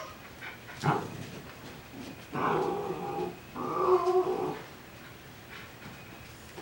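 Coton de Tulear dog vocalising: a short yip about a second in, then two drawn-out growly whines in the middle.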